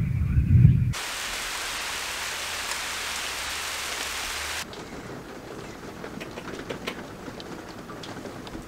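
Thunderstorm downpour: a deep rumble of thunder in the first second, then a steady hiss of heavy rain. About halfway through it cuts to quieter rain with scattered drops tapping.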